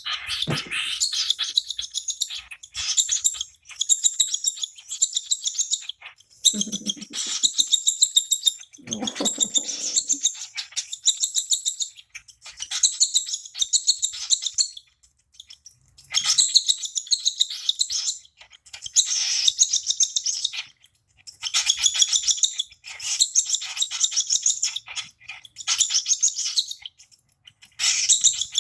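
Two-month-old baby cockatiel giving rapid strings of high chirps, bout after bout with short pauses: the happy chirps of a chick being hand-fed.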